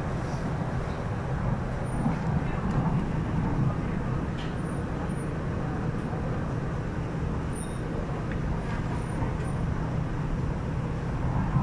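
Steady running noise inside the cabin of an MTR R-Train electric multiple unit under way, a low, even hum of wheels and traction equipment.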